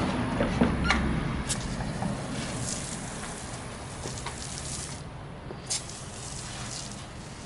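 Hand-pump foam sprayer spraying degreaser foam onto an engine bay: the hiss of spraying fades in the first second, then comes in short, scattered spurts with small ticks.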